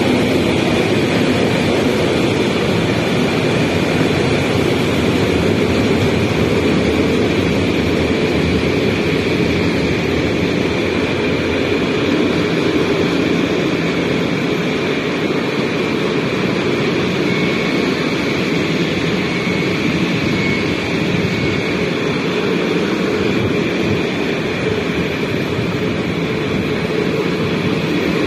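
A long freight train of open-top steel wagons rolling past: a loud, steady rumble of steel wheels on the rails.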